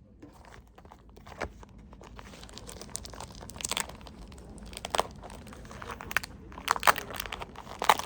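Packaging crinkling and crumpling as it is handled, in irregular crackles that grow busier a few seconds in.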